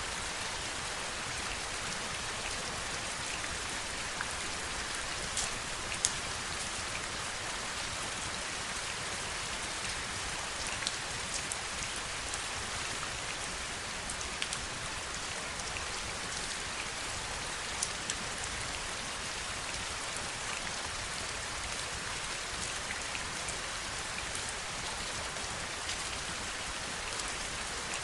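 Steady heavy rain, with now and then a sharper single drop ticking close by.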